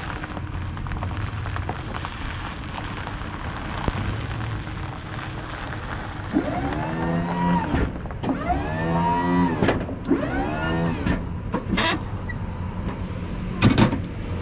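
Snow plow's electric-hydraulic pump motor whining in three runs of about a second and a half each, rising in pitch as each starts and dropping as it stops, over the truck idling; it is the blade being worked from the controls to check that the newly hooked-up plow is working. A couple of sharp knocks follow near the end.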